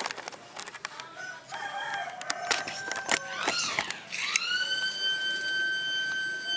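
A rooster crowing: a rising and falling call, then a long held note from about two-thirds of the way in. Scattered clinks and knocks come before it.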